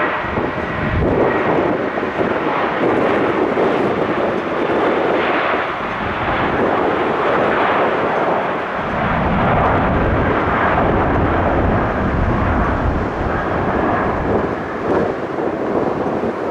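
Airbus A320-200 jet airliner departing, its engines at takeoff power making a loud, steady rushing noise that swells and eases slightly.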